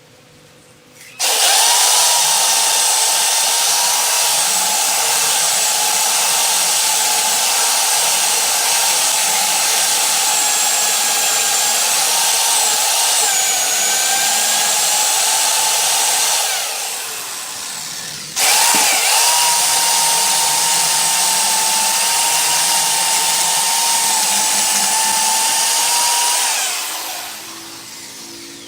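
Electric power tool switched on suddenly and running steadily at one pitch for about fifteen seconds, then spinning down. It is switched on again and runs about nine seconds before spinning down once more.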